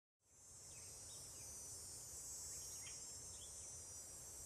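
Faint outdoor ambience coming in out of silence: a steady high insect chirring, like crickets, with a few faint short chirps and a low rumble underneath.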